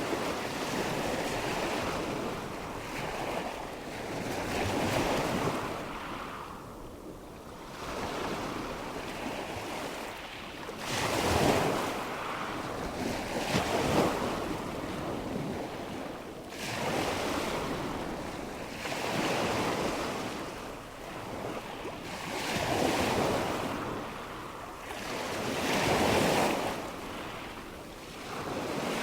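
Nature ambience of rushing water and wind, a steady wash of noise that swells and ebbs every few seconds like breaking surf.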